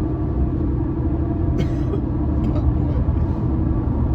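Steady engine and road rumble of a truck driving along, heard from inside the cabin.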